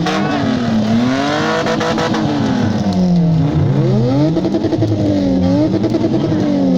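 An engine revving up and down repeatedly, its pitch rising and falling every second or two.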